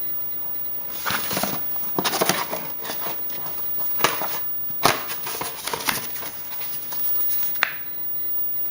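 Paper schedules being handled: irregular rustling and crinkling with sharp crackles, starting about a second in and stopping near the end.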